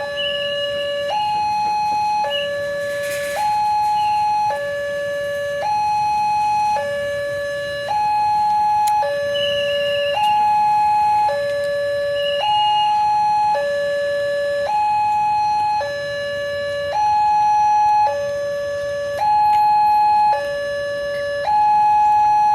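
Railway level-crossing warning alarm sounding a steady two-tone hi-lo, the two notes alternating about once a second.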